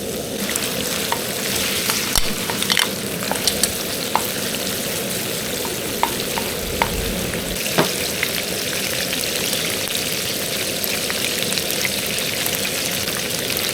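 Squid and pork stir-frying in a hot pan: a steady sizzle, with sharp clicks of the stirring utensil against the pan over the first half or so.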